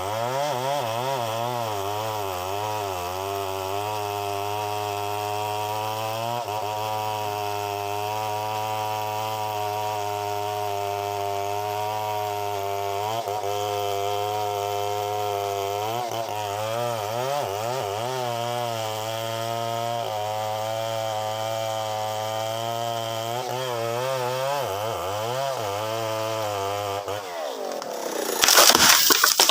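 A chainsaw running and cutting wood, its engine pitch wavering up and down as the load on the chain changes. About 27 seconds in the saw stops, and a loud crackling, rushing noise starts right after.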